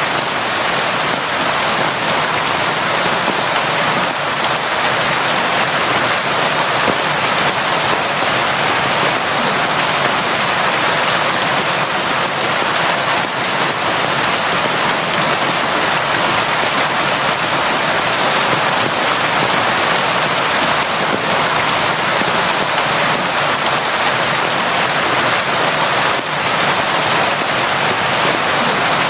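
Constant, steady rain falling: an even hiss of raindrops with no lulls or breaks.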